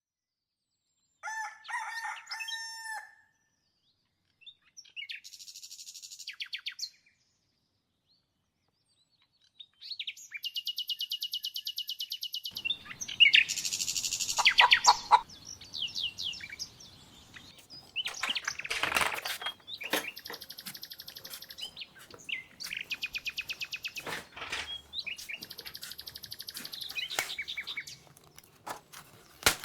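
Songbirds singing in rapid trills and chirps, one song after another, with a rooster crowing briefly about a second in. A faint outdoor background comes in about halfway through.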